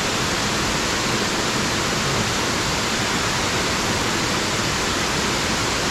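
Steady rush of a small waterfall pouring into its pool, an even wash of water noise that does not change.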